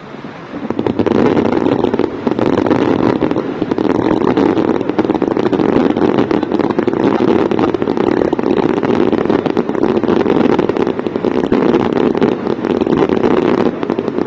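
Dense fireworks barrage: a continuous mass of bangs and crackling with no gaps, starting about half a second in.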